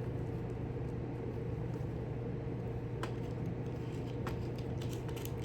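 Steady electrical hum of a workshop room, with a few light clicks of small hardware being handled, one about three seconds in and several more near the end.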